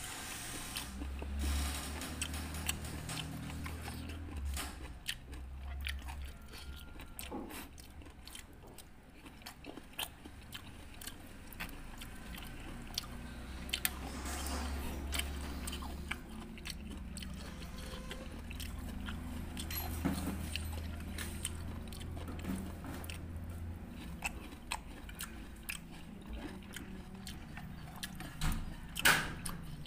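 Close-up chewing and crunching of rujak, raw fruit pieces in a sticky spicy sauce, picked up on a clip-on microphone, with small clicks of a metal spoon against the bowl and a sharper click near the end.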